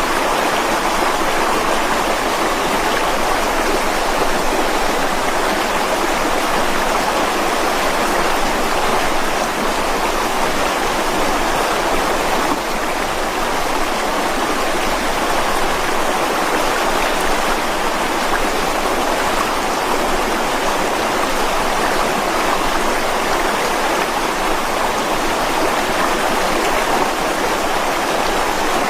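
Mountain stream rushing steadily over rocks, a constant, even flow with no lulls.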